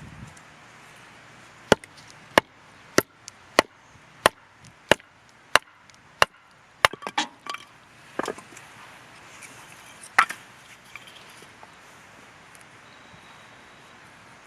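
Firewood being chopped: a steady series of about nine sharp wooden chopping strikes, roughly one every 0.6 seconds. These are followed by a few looser knocks and one last loud strike.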